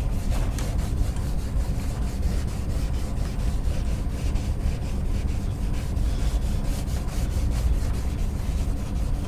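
A 400-grit abrasive pad scrubbing a wet, soapy plastic dirt-bike panel in repeated back-and-forth strokes, taking grime out of the worn, oxidised plastic.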